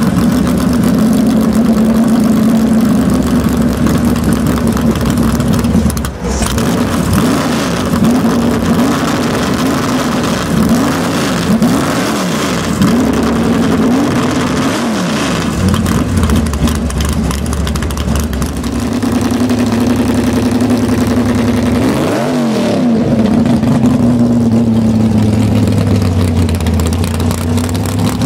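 Loud drag-racing car engines revving, the pitch climbing and dropping again and again, with steadier running in between.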